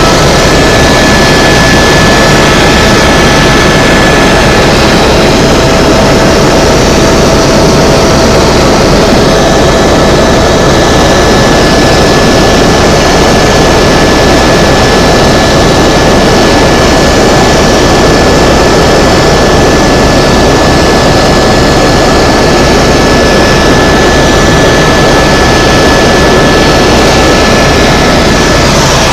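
Tour helicopter in flight: steady engine and rotor noise with a few high whining tones running through it.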